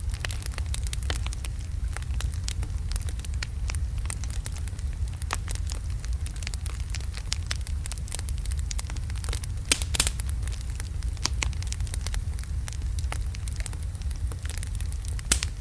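Wood logs burning in a fireplace: a steady low rumble of flames under frequent sharp crackles and pops, with a couple of louder pops about ten seconds in and near the end.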